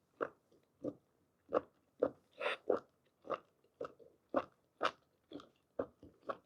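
Close-up chewing of blanched whole squid: short, wet mouth sounds about two a second.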